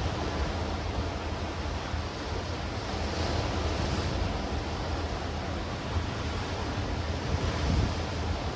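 Sea waves surging and washing against rocks and stones, a continuous surf with a brighter swell about three seconds in and a deeper surge near the end. Wind buffets the microphone with a low rumble underneath.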